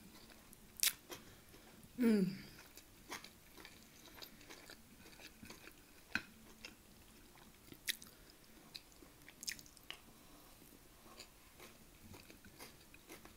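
Quiet close-miked chewing and eating of rice and beef mince, with scattered sharp clicks and a wooden spoon scraping the plate. A short falling voice sound, the loudest thing, comes about two seconds in.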